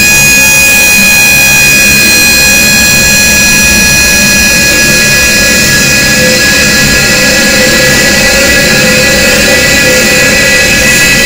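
Harsh noise music: a loud, unbroken wall of distorted noise with several steady, high-pitched tones held over it.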